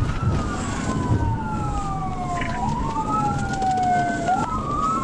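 Police cruiser siren wailing, each cycle a quick rise and a long slow fall, over the low rumble of the car's engine and tyres at speed during the pursuit.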